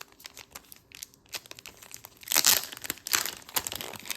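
Plastic card packaging crinkling and rustling as it is handled, with small clicks throughout and louder bursts of crinkling a little over two seconds in and again around three seconds.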